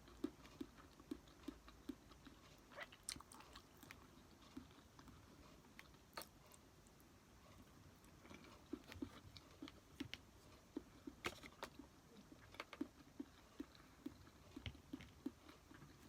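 Close-up chewing of tuna sushi: soft, regular chewing sounds about twice a second, with a few sharper clicks.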